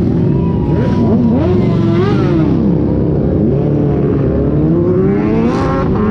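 Car engines running loudly over a steady rumble, their pitch rising and falling as they are revved, with a sharp rev climbing high about five and a half seconds in.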